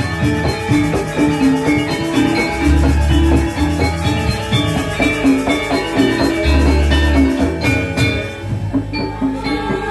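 Balinese gamelan playing: bronze metallophones ring out in quick runs of notes over drumming, with a deep low note sounding twice, about four seconds apart.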